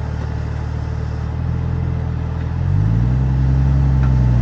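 Off-road 4x4's engine running at low revs, then revving up about two and a half seconds in and holding there as throttle is applied.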